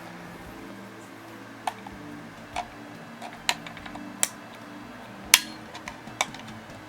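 Hard plastic clicking and snapping as a screwdriver pries apart the glued plastic housing of a six-port AC outlet: about six separate sharp clicks, the loudest about five seconds in.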